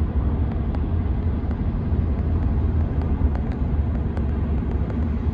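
Steady low rumble of an airliner cabin in flight, with a few faint clicks.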